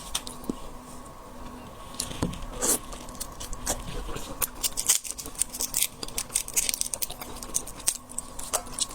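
Shrimp shells cracking and crackling close to the microphone as they are broken open, a rapid irregular run of sharp snaps and clicks.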